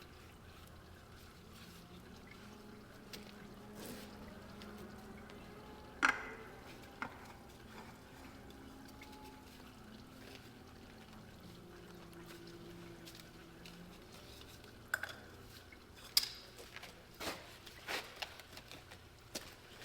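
Hot engine oil trickling out of a skid steer's drain plug into a pan, with a few sharp knocks and clinks, the loudest about six seconds in and several more near the end.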